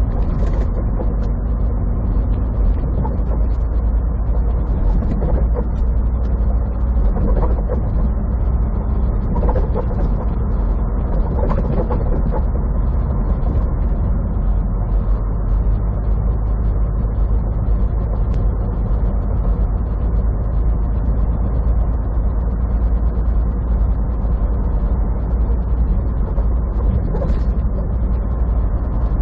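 Semi truck's diesel engine and road noise heard from inside the cab while driving: a steady low rumble, with a few short squeaky sounds over it a few seconds in.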